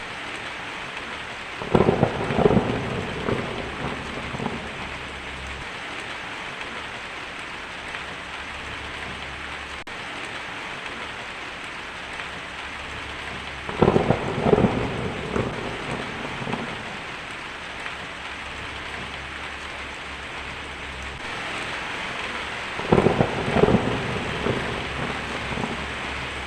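Steady heavy rain with three crackling thunderclaps, near the start, about halfway and near the end, each lasting a couple of seconds.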